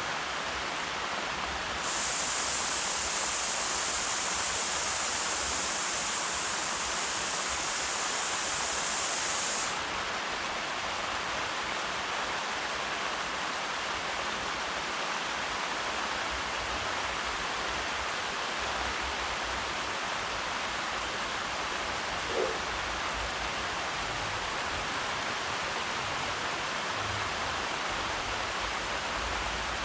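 Steady rain falling, an even hiss. A higher, brighter hiss joins it about two seconds in and stops suddenly about eight seconds later. A brief faint sound comes about two-thirds of the way through.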